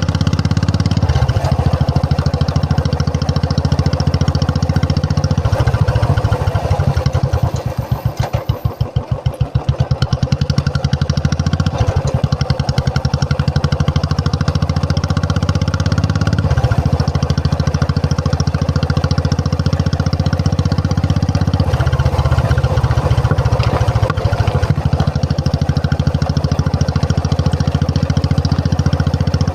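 Royal Enfield Classic 350 single-cylinder engine running with a steady exhaust thump. About a third of the way in the revs drop to a slow, separate beat at idle, then pick up again.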